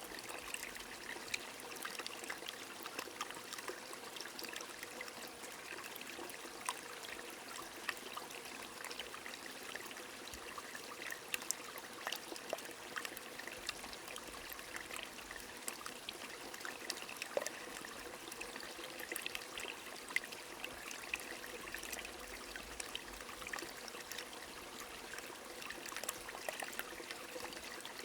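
A small stream running steadily, with rain falling and many small sharp drip ticks scattered over the even rush of water.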